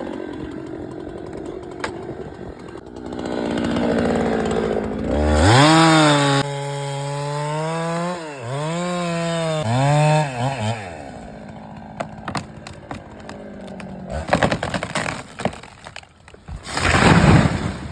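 Husqvarna chainsaw revving up to full throttle and cutting, its pitch dipping twice under load, then dropping back. Near the end come a run of sharp wood cracks and a loud crash, as of the tree breaking and coming down.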